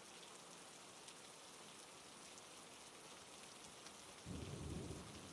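Faint, steady hiss of heavy rain. About four seconds in, a low rumble rises underneath it.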